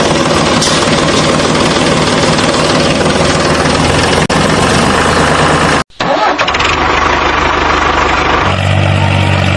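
Tractor engine running steadily with a dense mechanical clatter. It cuts off abruptly about six seconds in, starts again at once, and settles into a deeper, steadier hum for the last second or so.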